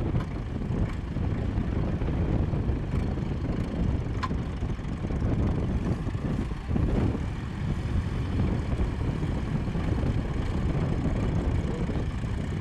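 Engine of the towing vehicle running steadily while it pulls the buried tractor out of the sand on ropes.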